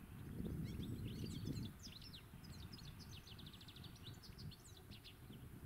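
European goldfinch singing: a fast, tinkling twitter of high notes with a quick trill in the middle. A low rumble runs underneath, heavier in the first second and a half.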